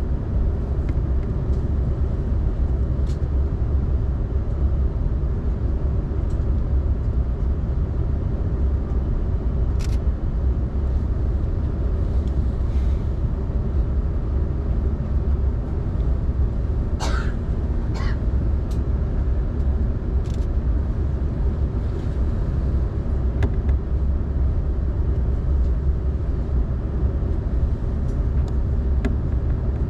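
Steady low rumble of an Airbus A380-800 heard from inside the passenger cabin, holding an even level. Two short squeaks a second apart come just past halfway.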